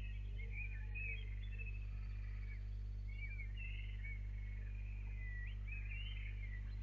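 Small birds singing, a scatter of short chirps and trills, over a steady low electrical hum.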